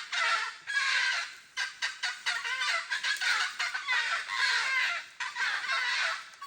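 Laughing falcon calling: rapid, repeated cackling notes, several a second, in long loud bouts broken by brief pauses.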